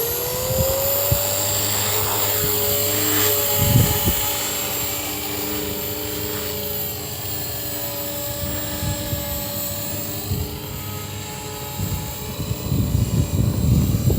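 Walkera V450D03 electric RC helicopter in flight: a steady motor and rotor whine that rises in pitch in the first second or two, then holds level. Wind buffets the microphone in low rumbling gusts, stronger near the end.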